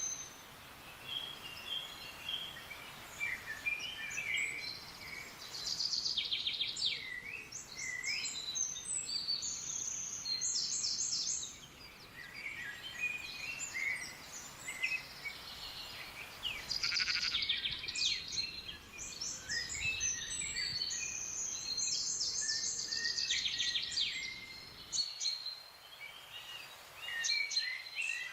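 Several wild forest birds singing and calling together, with overlapping high chirps, short whistled notes and fast trills, over a faint low background hiss that cuts off abruptly near the end.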